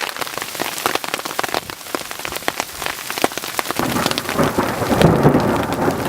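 Hail pelting a backpacking tent in many sharp, rapid taps, with a low rumble of thunder rolling in about two-thirds of the way through and growing louder.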